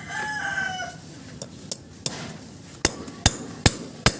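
A rooster's crow trails off in the first second. Then a hammer taps on metal in about seven sharp strikes, coming steadily at two or three a second.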